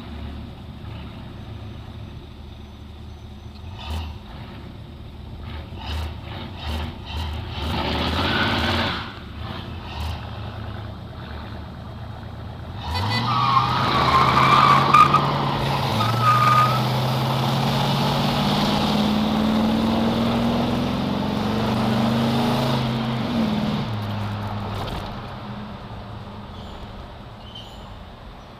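Engines of a 1966 Ford Galaxie 500 and a 1972 Corvette Stingray drag racing: they idle and are revved in short blips, then launch hard about thirteen seconds in with a brief high squeal. The engine note rises in steps through the gears, then drops and fades into the distance.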